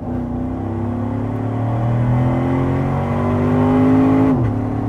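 Chevrolet Corvette C7 Stingray's 6.2-litre V8 under hard acceleration, heard from inside the cabin: the engine note climbs steadily, then drops suddenly a little over four seconds in as it shifts up a gear.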